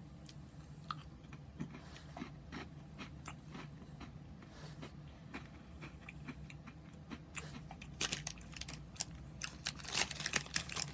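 Crunching and chewing on a Mini Cheddars cracker (fruit chutney flavour): a few scattered crunches at first, then denser, louder crunching over the last few seconds.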